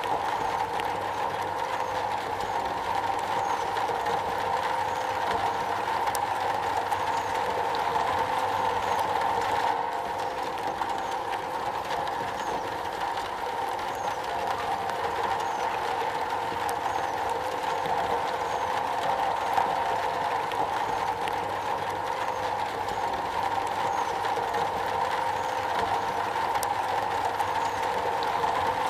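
Rain falling steadily on a metal roof, an even, unbroken patter.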